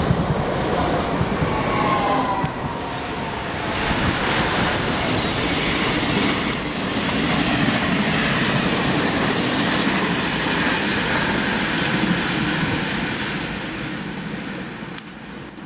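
Regional passenger train of Trenitalia coaches running past on a curve: steady rumble and clatter of wheels on the rails, with a faint squeal of the wheels in the curve, fading near the end as the train pulls away.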